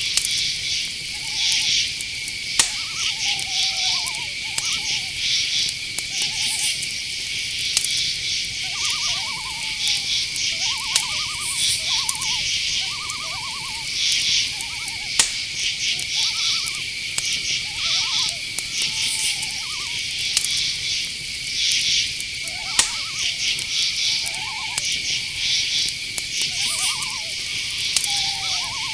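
Night-forest ambience: a steady high insect trill under rhythmic cricket chirping, with short, pulsed owl calls lower down every second or two and a few faint sharp clicks.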